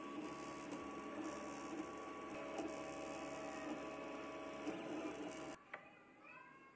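3D printer running, its stepper motors humming and whining in several steady tones that shift pitch as the head moves; the sound cuts off suddenly about five and a half seconds in.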